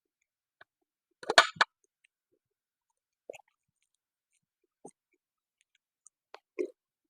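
Close-up eating sounds from a person's mouth: a loud crackly burst of smacking about a second in, then a few faint wet mouth clicks and smacks spread through the rest, with short quiet gaps between them.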